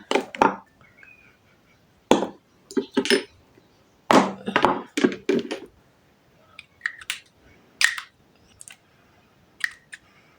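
Glass perfume bottles clinking and knocking as they are picked up and set down, a series of short, sharp knocks with quiet gaps between, thinning out in the last few seconds.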